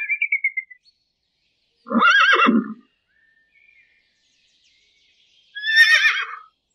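Horse whinnying twice, each a brief quavering neigh, the second about three and a half seconds after the first. A bird's high call trails off at the very start.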